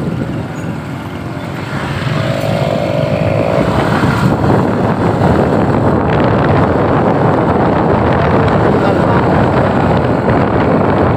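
Engine and road noise from a moving vehicle on the road, growing louder about two seconds in as it picks up speed and then running steadily.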